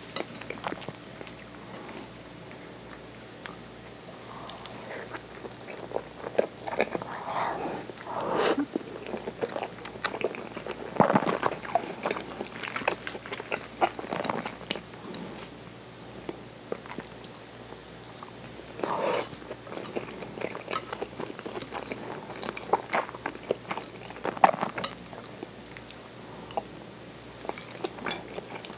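Close-miked chewing of okonomiyaki: soft wet mouth sounds and small crunches, with a handful of louder bites at irregular moments.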